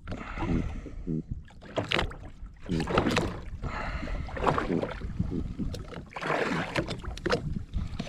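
Water splashing and sloshing at the side of a small boat as a fish is held in the sea to revive it, with irregular knocks and wind on the microphone.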